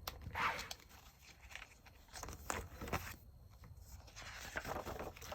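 Soft paper rustling and small taps as a paper planner is handled and its pages turned, with a few brief rustling swells.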